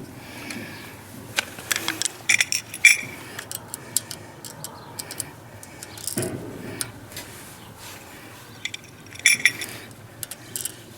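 Small metal clicks and clinks of tools and hardware being handled, in two clusters, the first lasting about a second and a half and the second shorter near the end, while the electric motor's wiring is being connected.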